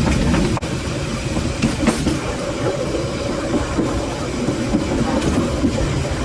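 A train running along the track: a steady rumble, with a few sharp clicks of the wheels over the rails.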